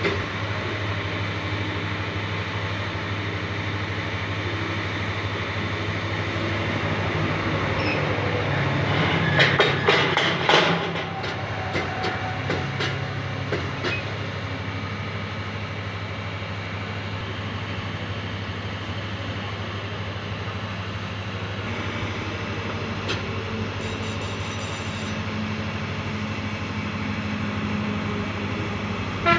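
Train running with a steady low rumble, with a burst of loud rattling clanks about ten seconds in and a few scattered clicks after.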